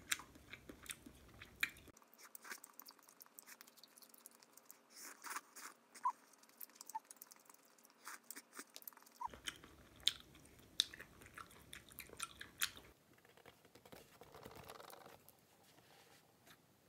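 Close, quiet eating sounds: chewing kalguksu noodles and fish cake, with small crunches and many short sharp clicks.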